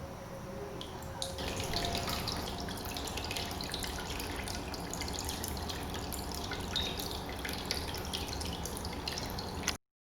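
Water trickling and dripping in a miniature tabletop rock-and-plant water feature, a busy patter of small splashes over a steady flow. The splashing turns brighter about a second in, and the sound cuts off suddenly near the end.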